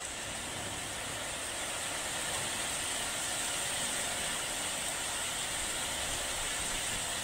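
Heavy downpour: rain falling in a steady, even hiss.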